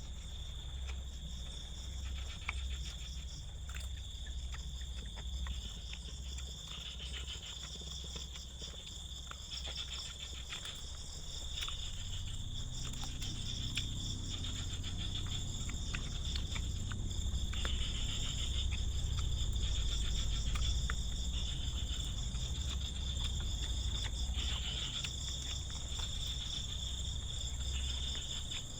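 Crickets and other night insects chirping steadily in a fast pulsing trill, over a low rumble that swells about halfway through, with scattered small clicks.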